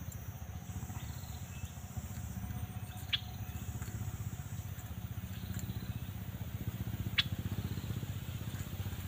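A bird gives two single short, sharp chirps about four seconds apart over a steady low rumble.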